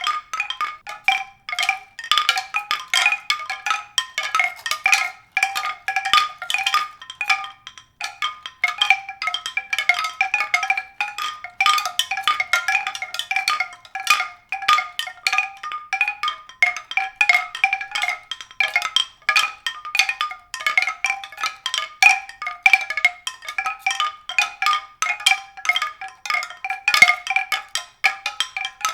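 Mallet-percussion music: a quick, unbroken stream of struck high notes with no bass beneath them.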